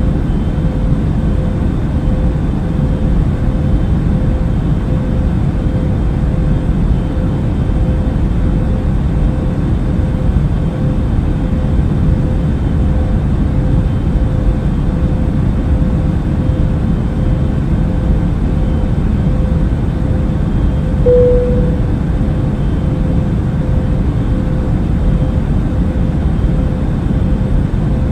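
Airplane cabin noise: a steady low rumble of engines and airflow with a faint constant hum. A short, slightly louder tone sounds about two-thirds of the way through.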